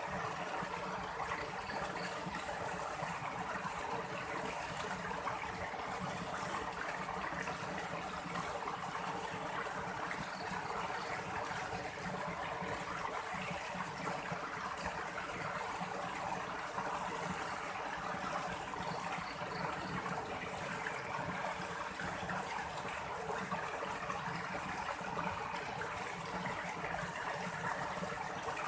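Steady rushing and trickling of a stream's flowing water.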